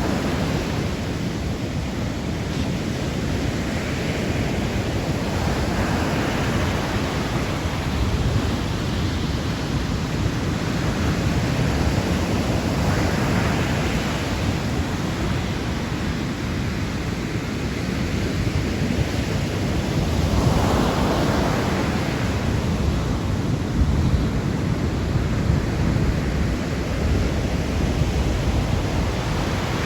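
Sea waves washing onto the shore, a swell of surf rising and breaking roughly every seven seconds over a steady low rumble, with wind buffeting the microphone.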